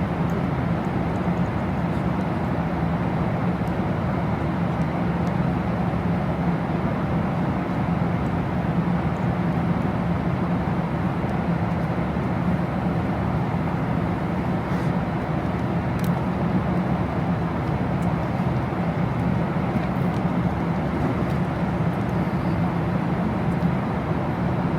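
Steady cabin rumble of an airliner in flight: an even, unchanging noise, strongest low down.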